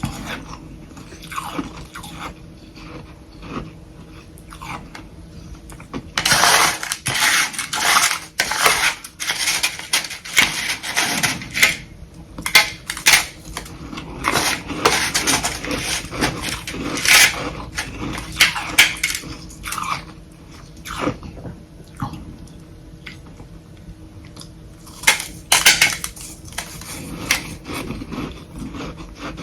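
Close-up crunching and chewing of soft humidifier frost sticks (freezer frost grown with a humidifier), in several bouts of dense crackly bites with quieter chewing between.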